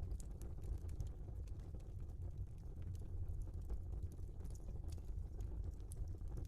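Wood fire in a fireplace, burning logs crackling with scattered sharp pops over a steady low rumble of the flames.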